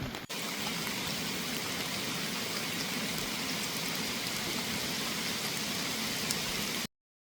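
Steady rain pouring down, an even hiss with faint drop ticks, which cuts off abruptly near the end.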